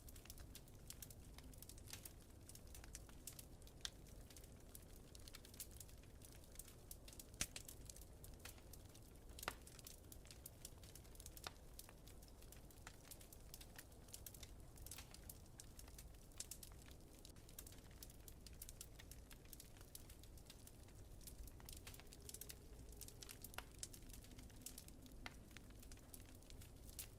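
Wood fire crackling faintly: irregular small pops and snaps, a few louder ones, over a steady low rumble.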